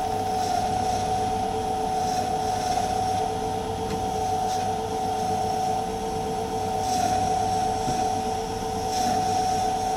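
Myford lathe running under a heavy roughing cut on a metal bearing housing, a steady whine from the lathe and cutting tool with a few faint hissy bursts up high. He says there is vibration from the heavy cut.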